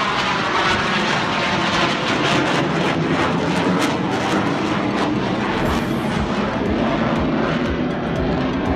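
Jet aircraft engine noise: a loud, steady roar with a crackling edge.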